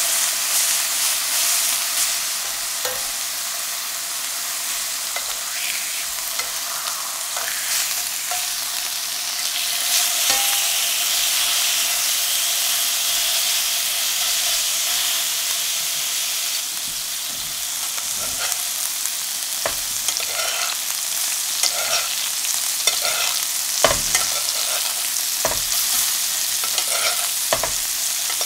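Pork chops frying in foaming butter in a cast-iron skillet, a steady high sizzle. Metal tongs and a basting spoon click and scrape against the pan now and then, more often in the second half.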